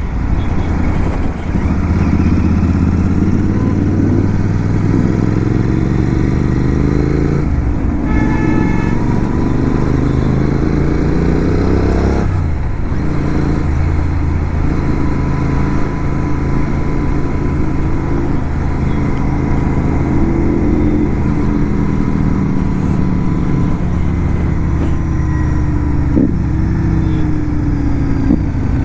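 Motorcycle engine running under way, its pitch climbing as it revs up and dropping sharply at upshifts about seven and twelve seconds in, then rising and falling more gently.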